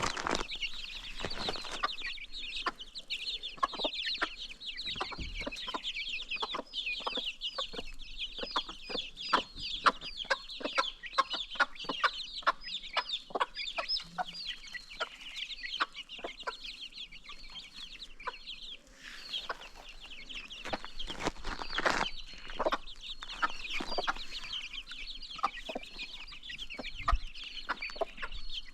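A flock of baby chicks peeping continuously in a dense chorus of short, high chirps, with chickens clucking and frequent short clicks and knocks mixed in.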